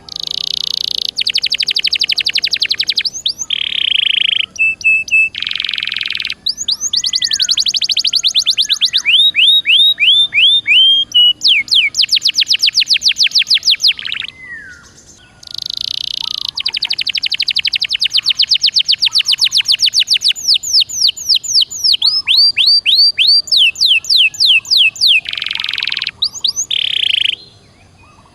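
Domestic canary singing a long, vigorous song of rapid trills, buzzy rolls and fast series of sweeping notes, with one short pause about halfway through.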